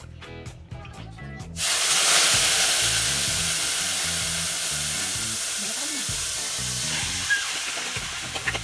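Food dropped into hot cooking oil about a second and a half in, setting off a loud frying sizzle that slowly dies down.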